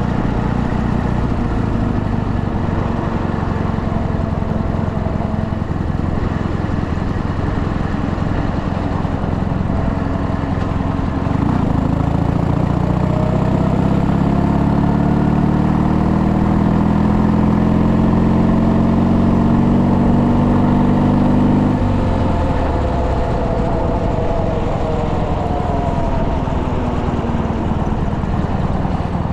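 Ural motorcycle's flat-twin engine running. About a third of the way in it pulls harder, its pitch climbing slowly and the sound getting louder for roughly ten seconds. It then drops back suddenly to a lower, steadier note.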